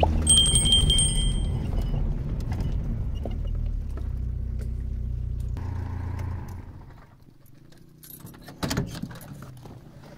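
A car's engine running as it drives, dying away about seven seconds in as the car comes to a stop. A single sharp knock follows just before the end.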